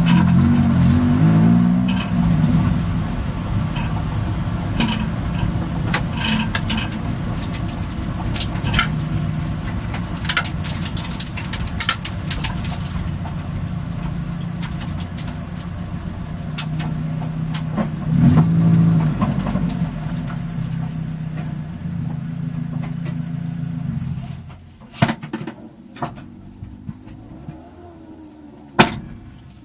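Mazda Miata's four-cylinder engine running at low speed as the car rolls along, with a brief rise in revs about 18 seconds in. The engine is switched off about 24 seconds in, followed by a few sharp knocks, the loudest near the end.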